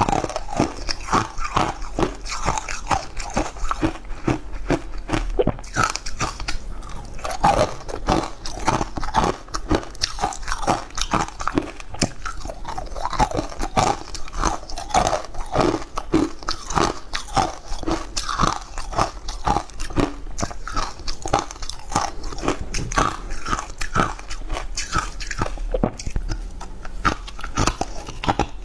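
Close-miked chewing with crunching bites, one after another without a break, as a cocoa-powdered food is eaten.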